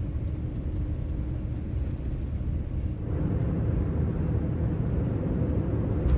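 Cabin noise inside a Boeing 787-9 airliner: a steady low rumble of engines and airflow that grows a little louder about three seconds in.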